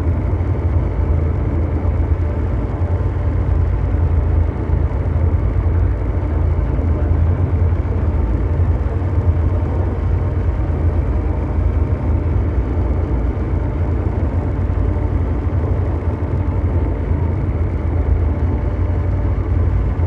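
Continuous ambient mechanical drone: a steady, deep brown-noise rumble like a heavy engine, with faint steady hum tones over it and no change in pitch or level.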